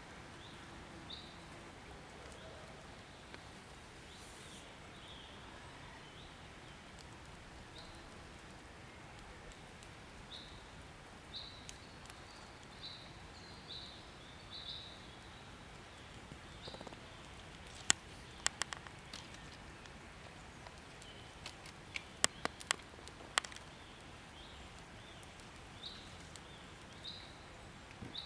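Quiet outdoor background with short, high bird chirps repeating every second or so. Two quick clusters of sharp clicks come about two-thirds of the way through.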